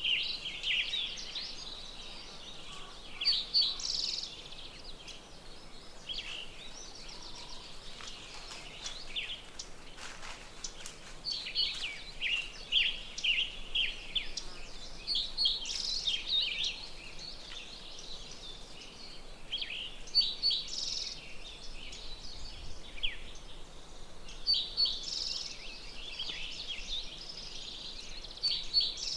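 Wild songbirds singing in phrases of quick, high chirps and trills, a few seconds apart, with a longer pause early on.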